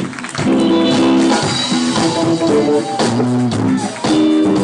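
Live church band music: guitar chords with bass and drum kit.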